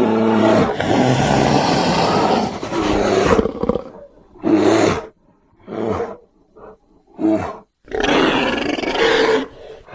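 Creature roar sound effect for a made-up bear-like beast, built from grizzly bear and Andrewsarchus sounds: a long roar, three short calls, then a second long roar, with another just starting at the end.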